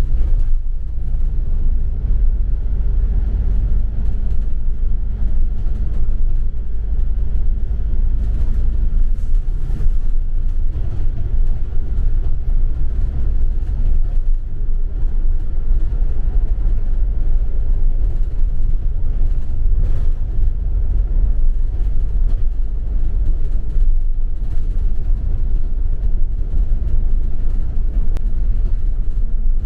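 Steady low rumble of a double-decker bus driving along the road, heard from inside the passenger cabin, with a low engine hum that fades after about nine seconds and returns near the end.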